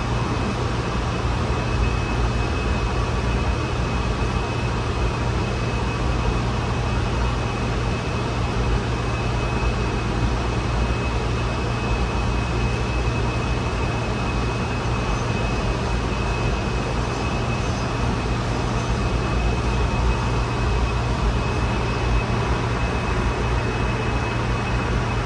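Steady running noise inside a Honolulu Skyline metro car under way: an even low rumble and hum, with a thin steady high tone above it.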